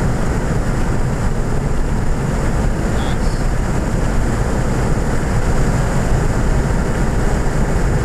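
A 2014 Ford Fiesta ST's 1.6-litre turbocharged four-cylinder engine running hard at track speed, heard from inside the cabin, with steady road and wind noise.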